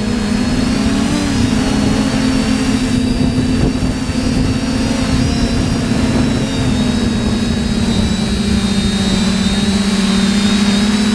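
TBS Discovery quadcopter's electric motors and propellers whining steadily as it flies, the pitch wavering slightly and dipping a little about six seconds in. Wind rumbles low over the microphone.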